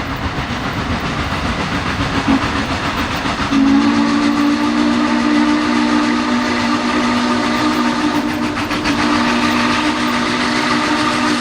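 Norfolk & Western 4-8-4 No. 611 steam locomotive running with a rumbling, clattering train sound. About three and a half seconds in, its chime whistle starts a long, steady blast that is held from then on.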